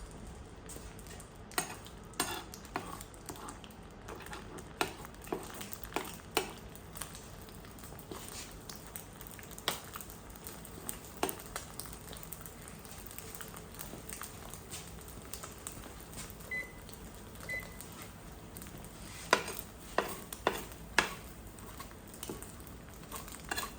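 Irregular clicks and clinks of small hard objects being handled and set down, with a cluster of sharper knocks about three-quarters of the way in. Two short electronic beeps sound a little past the middle.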